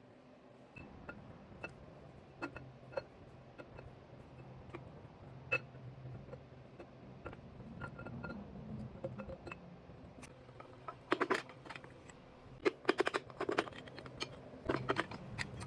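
Light metallic clicks and clinks of tools and engine parts being handled during an engine teardown. Scattered single taps give way to clusters of quick clinks about eleven seconds in and again near the end, over a faint low hum.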